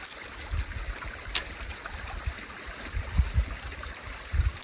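Creek water flowing steadily over rocks, with irregular low rumbles and one sharp click about a second and a half in.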